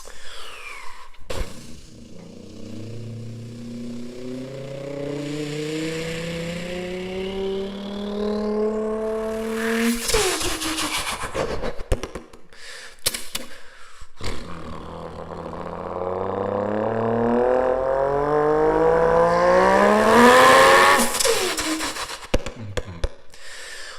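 A person imitating the worst-sounding car ever with their mouth: two long revs that climb steadily in pitch, each building over about eight seconds, with sputtering clicks and pops between them.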